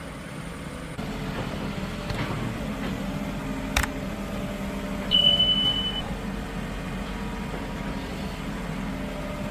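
Steady low mechanical hum, with one sharp click a little under four seconds in and a short, steady high beep lasting about a second just after five seconds.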